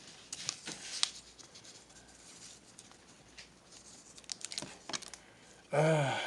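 Light rustling and scattered clicks of trading cards being handled and flipped through after a freshly opened pack. Near the end, a short vocal sound from the person.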